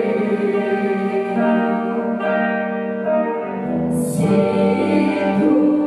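Instrumental passage of a gospel worship song: a band holding sustained chords that change every second or two, with a wash of high hiss like a cymbal about four seconds in.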